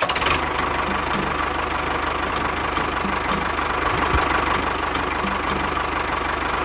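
A motor running steadily at constant speed, with a faint steady whine above the running noise.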